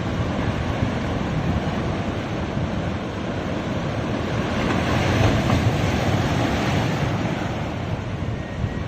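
Ocean waves washing onto a beach, a steady surf with a gentle swell, with wind buffeting the microphone.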